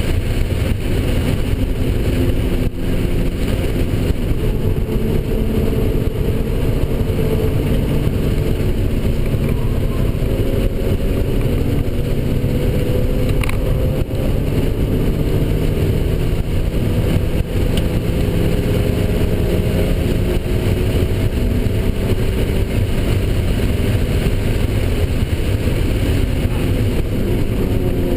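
Mazda NC Miata's four-cylinder engine pulling hard on track, heard from inside the cabin, its pitch climbing slowly in long rises as the car accelerates.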